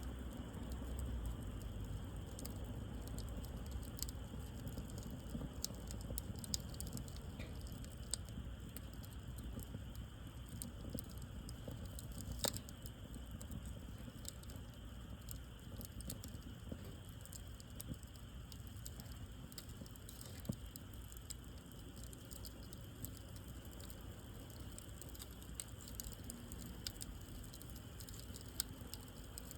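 Wood campfire crackling, with scattered sharp pops, one louder than the rest about twelve seconds in, over a low steady rumble.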